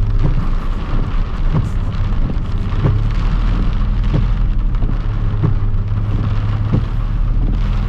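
Pickup truck driving through a shallow flooded street in heavy rain, heard from inside the cab: a steady low engine and road drone with irregular taps and splashes of water against the truck.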